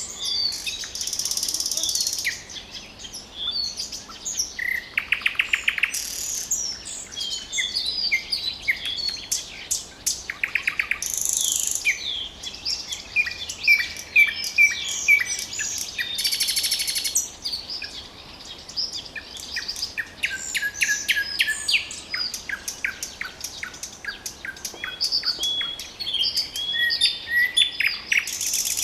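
Nightingale singing: a run of varied phrases mixing clear whistled notes, fast pulsed trills and harsh rattling bursts, with short gaps between phrases.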